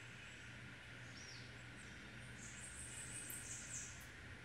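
Faint ambient background with small birds chirping high and thin, the chirps mostly in the second half.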